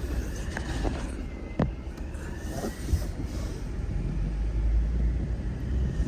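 Low, steady vehicle engine rumble with a few sharp knocks early on and a faint high whine.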